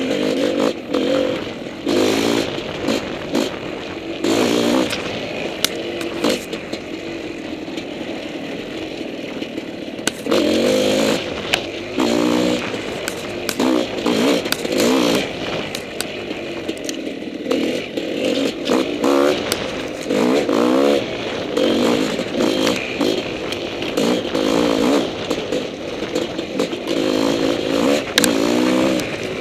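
Honda CR500 two-stroke single-cylinder dirt bike engine, ridden on a trail, its revs rising and falling over and over with the throttle. Scattered sharp clicks and clatter run through it.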